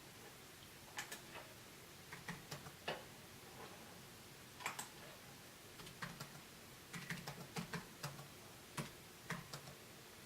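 Faint computer keyboard keystrokes and mouse clicks, irregular single clicks with a quick run of them a few seconds before the end, as numbers are typed into a spreadsheet.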